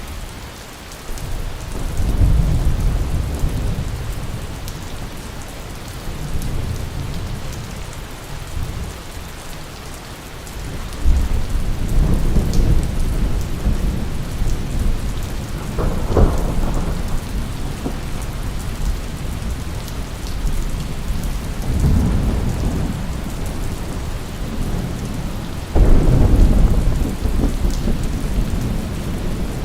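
Steady heavy rain with rolls of thunder rumbling low every few seconds. The biggest roll swells near the end.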